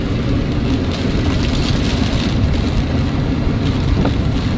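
Steady low rumble with a rushing noise inside a truck's cab.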